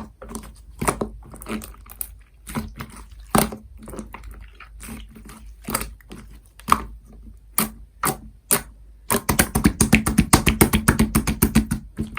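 Clear slime mixed with scoop clay being worked by hand, giving scattered sticky pops and clicks, then a fast, dense run of crackling pops from about nine seconds in.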